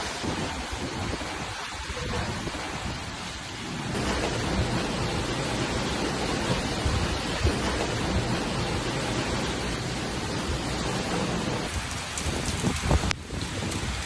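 Heavy rain and wind of a severe thunderstorm: a steady noise that gets louder about four seconds in. Near the end the sound changes suddenly and a few sharp knocks stand out.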